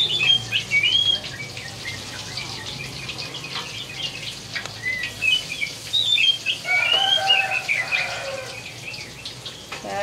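Small birds chirping over and over in short rising and falling calls, with a fuller run of song about seven seconds in. Beneath them, food frying in a wok gives a steady sizzle, with a metal ladle scraping and tapping against the pan now and then.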